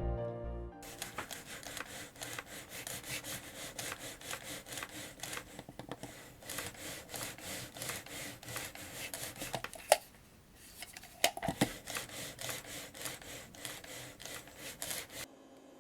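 Typing on a genuine NEC PC-98 mechanical keyboard: a fast, irregular run of key clicks, with a short pause about ten seconds in.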